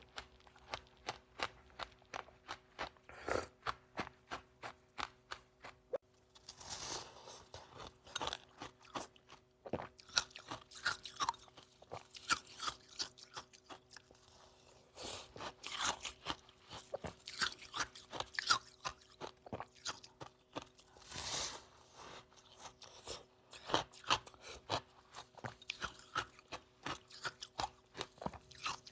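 Close-up chewing of dry, powdery freezer-frost ice: quick crunches at about three a second, broken by a few longer, louder bites into fresh mouthfuls.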